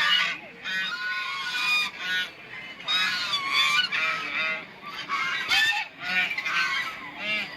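Domestic geese honking, several birds calling over one another in quick, repeated honks.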